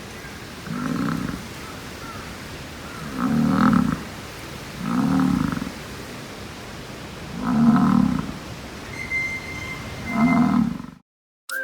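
American bison bull bellowing in the rut: five deep, low bellows, each under a second long and two to three seconds apart.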